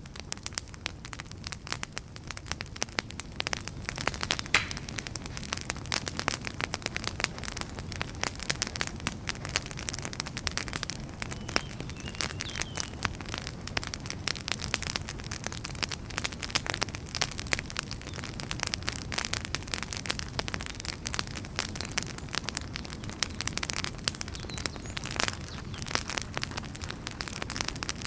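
Wood fire burning, crackling with a steady stream of sharp pops and snaps over a low, even rumble. A faint brief whistle rises out of it near the middle.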